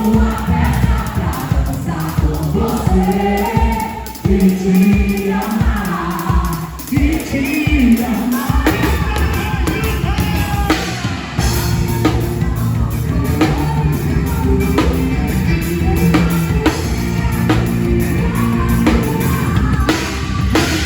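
Several voices singing together over a live band, with drums keeping a steady beat that grows fuller about halfway through.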